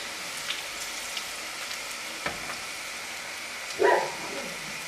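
Okra deep-frying in hot oil in a nonstick wok, a steady sizzle with small scattered pops. About four seconds in, a short clatter as the okra is moved between the slotted spoon and a plate.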